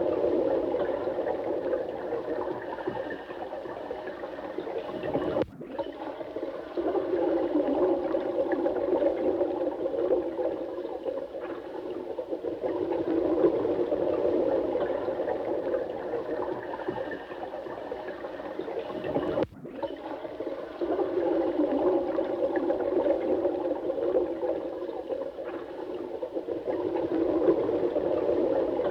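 Running water, a steady gurgling rush with most of its sound in the lower-middle range. There are two brief dips in level, about five and a half seconds in and again near nineteen and a half seconds.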